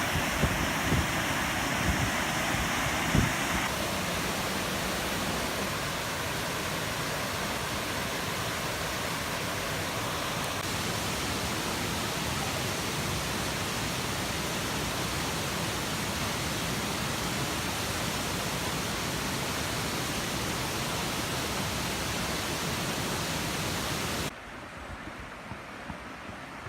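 Waterfall rushing: a steady, dense roar of falling water, with a few low bumps in the first few seconds. About three seconds before the end it cuts abruptly to a quieter rush of water.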